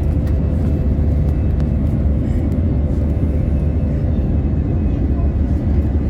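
Steady cabin noise of an Airbus A320 airliner in flight: a deep, even rumble of engines and airflow with a faint steady hum, unchanging throughout.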